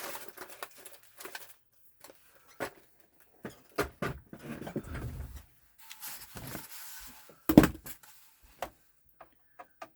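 Handling noise from taking apart a PS4 console: scattered clicks, scrapes and knocks of its parts, the loudest a sharp knock about seven and a half seconds in.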